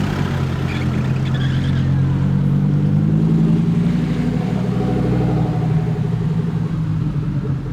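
Lamborghini supercar engine running at low, fairly steady revs as the car pulls away, getting a little louder about halfway through and easing off near the end.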